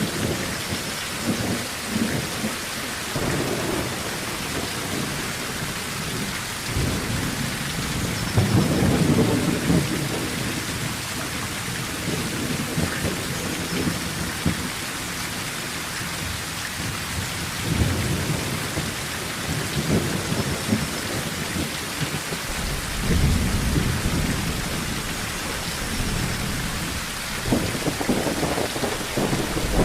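Steady heavy rain falling on a tin roof, with low thunder rolling in several times, around a third of the way in, past the middle, and again later.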